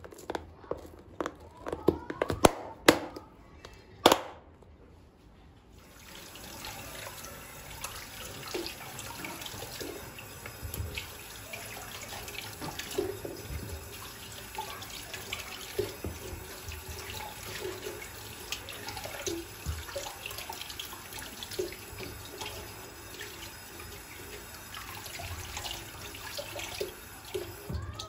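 A few sharp knocks and clatters, then a kitchen tap running steadily into a sink from about six seconds in, with small splashes and clinks throughout.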